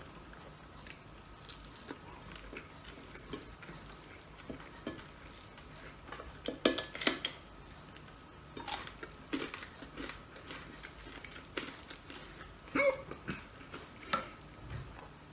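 Close-up eating sounds of a person eating rice and fish with his fingers: chewing, lip smacks and finger licking, with scattered short clicks. The loudest smacks come in a quick cluster about seven seconds in, with a few more near the end.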